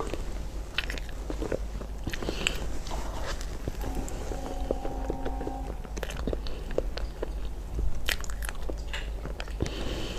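Close-up eating sounds: a person biting and chewing crunchy food, with irregular sharp crunches.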